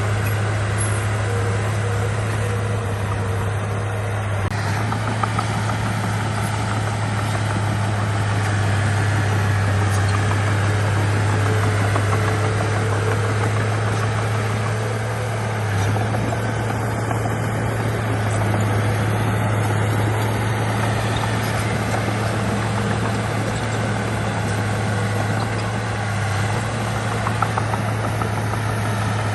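Heavy earthmoving machine's diesel engine running steadily, a constant low drone that holds one pitch throughout.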